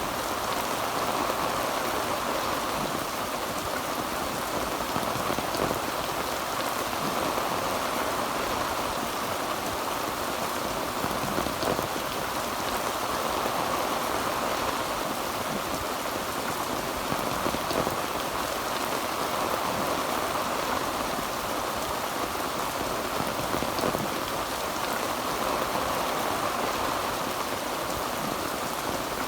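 Heavy rain drumming steadily on a tin roof, a dense even patter with no thunder.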